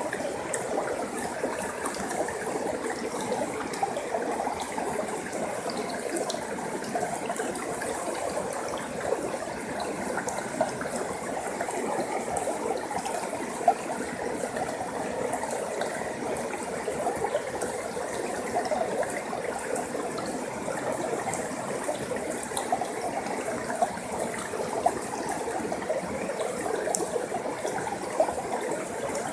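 Forest stream flowing over rocks, a steady babbling and splashing with small bright clicks of water here and there.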